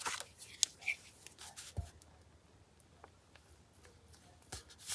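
Quiet paper handling during craft work: a few short rustles and clicks of paper and tools, mostly in the first second, then only faint, scattered small sounds.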